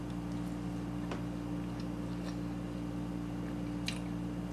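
A person chewing a mouthful of cake, heard as a few faint soft clicks over a steady low hum.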